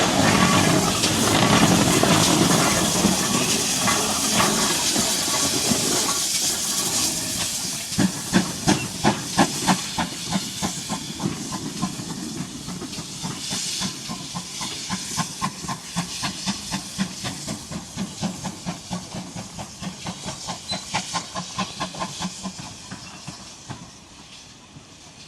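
Steam locomotive hissing steam loudly, then about eight seconds in it starts chuffing: a steady beat of exhaust puffs that fades as the engine moves off to run round to the other end of the train.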